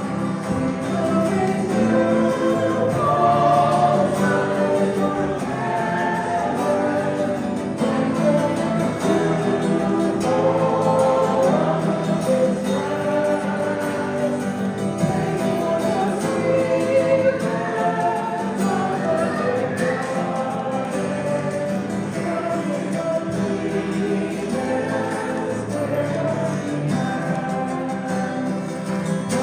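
Congregation singing a hymn together with instrumental accompaniment.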